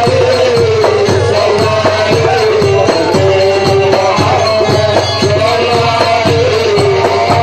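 Live Port Said simsimiyya folk music from a band: a wavering, sustained melody line over a steady drum beat of about three strokes a second.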